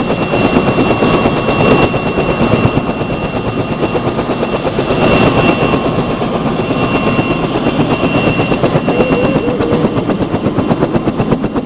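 Helicopter rotor and engine running in flight: a rapid, even beat of the rotor blades under a steady high whine.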